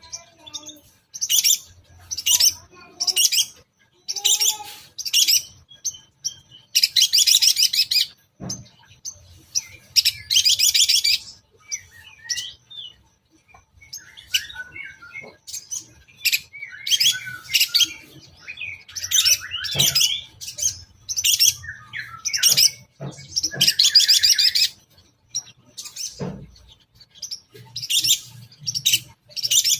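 Long-tailed shrike singing a varied run of short chirps and whistled notes, with mimicked calls woven in. Three loud, harsh rasping bursts of about a second each break the song.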